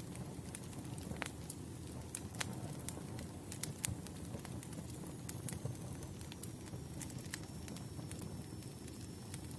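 Wood campfire burning: a steady low rumble of flames with irregular sharp crackles and pops of the burning logs. About halfway in, a faint thin high whistle starts and slowly falls in pitch.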